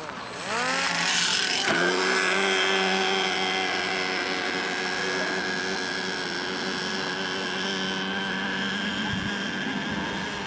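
A radio-controlled model boat's motor speeding up over the first two seconds or so, then running steadily at high revs.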